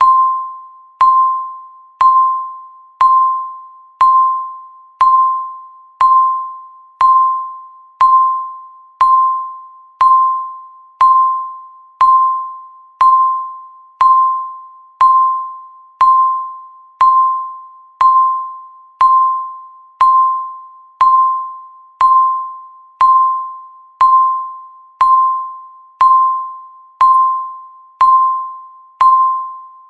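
Countdown timer's electronic tick sound: a single clear chime-like tone struck once every second, each strike ringing and fading before the next, about thirty in all.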